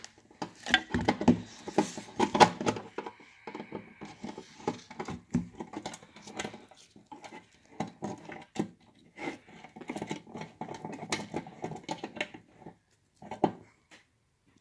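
Screwdriver driving screws into a Simplex TrueAlert strobe's plastic housing, with irregular clicks, scrapes and rattles as the parts are handled. It goes quieter near the end.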